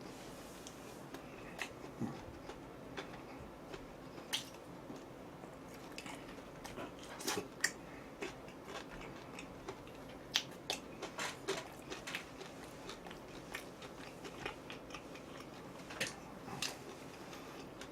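A person chewing and biting food close to the microphone: a string of short, crisp crunches and mouth clicks, thicker in the middle and later part.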